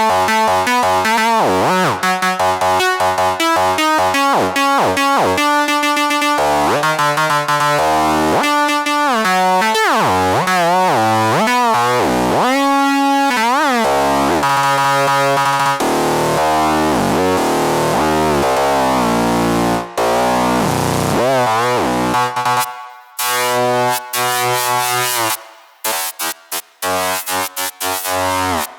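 UVI Titanium software synthesizer demo patches: a run of changing synth sounds, held chords and tones that glide up and down in pitch. In the last several seconds the sound turns choppy, cut into quick rhythmic stutters.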